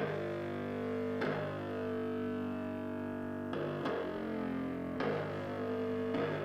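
Distorted electric guitar playing slow, held chords, with a new chord struck about every second or two and left to ring.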